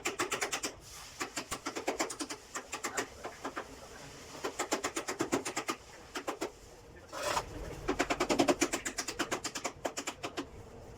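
Bursts of rapid scraping or rubbing strokes, about ten a second, broken by short pauses.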